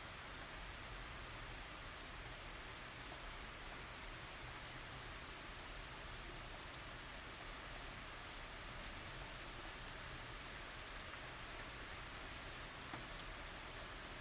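Steady light tropical rain falling, a soft even hiss with fine scattered drop patter and no thunder.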